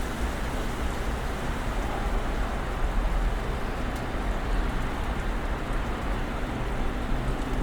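Snowstorm ambience: a steady hiss with a strong low rumble and a faint hum underneath.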